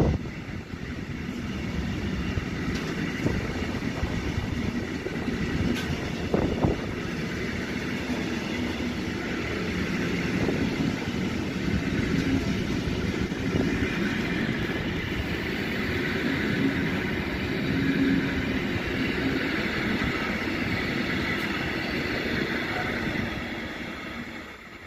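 Container freight train rolling past: the steady rumble of wagon wheels on the rails, with a few sharp knocks about six seconds in. The sound fades as the last wagon goes by near the end.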